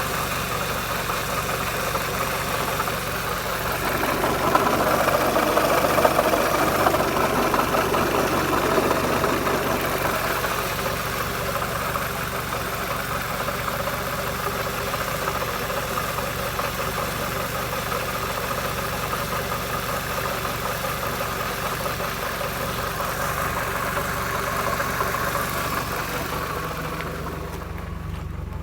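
Peugeot 206 2.0 16-valve four-cylinder petrol engine running, with a noise that the owner wonders may come from the manifold. It grows louder for several seconds starting about four seconds in, then settles back to a steady run.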